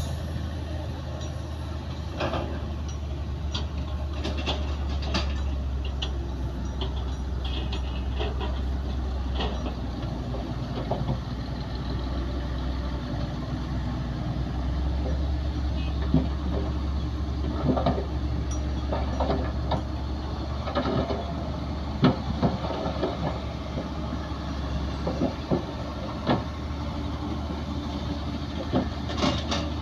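Bulldozer's diesel engine running steadily with a low drone, overlaid with irregular metallic clanks and knocks that grow more frequent and louder in the second half.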